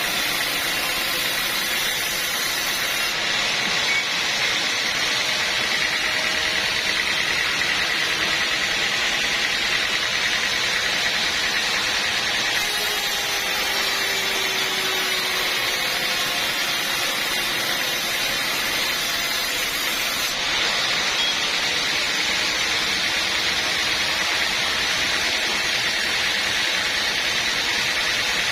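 Sawmill saw running steadily with a continuous mechanical whir and a faint steady whine.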